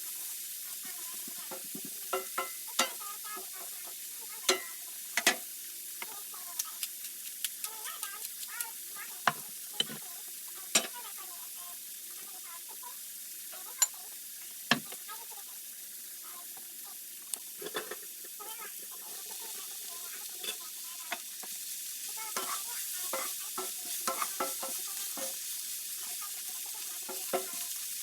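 Vegetables sizzling in a frying pan, with a steady hiss, while a utensil knocks and scrapes against the pan in short, irregular clacks as they are stirred.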